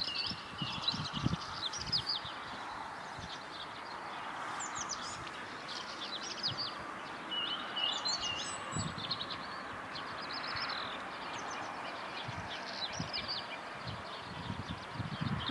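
Small songbirds chirping and twittering in quick irregular bursts over a steady outdoor background noise, with occasional low thumps.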